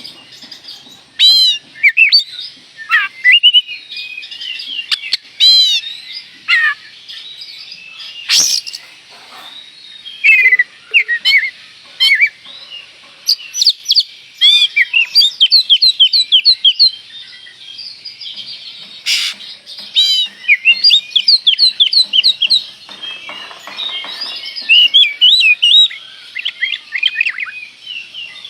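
Oriental magpie-robin (kacer) singing a loud, varied song of whistles, chirps and fast runs of repeated notes: the lively 'gacor' song used as a lure to provoke other kacers. A couple of sharp clicks cut in, one about a third of the way through and one past the middle.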